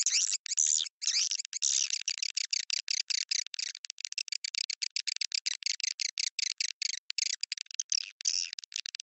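Swiftlet lure-call recording: swiftlet twittering as fast runs of high, chirping notes packed close together, broken by short gaps. It is the kind of call track swiftlet farmers play to draw swiftlets into a nesting house.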